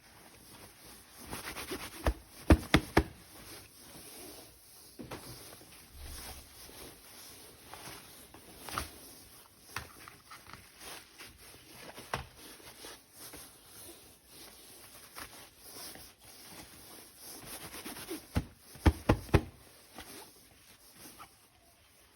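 Plastic toy weapon parts being handled, with light rustling and two clusters of sharp clicks and knocks, one about two seconds in and one near the end.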